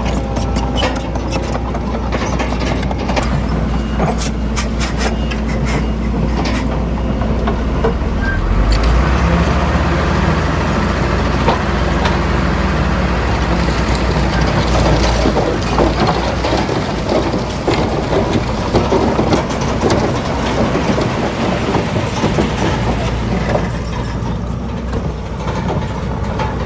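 Heavy diesel earthmoving machinery running steadily, with sharp clanks and rattles in the first several seconds. The engine note deepens and grows louder about 8 seconds in, then eases off about halfway through.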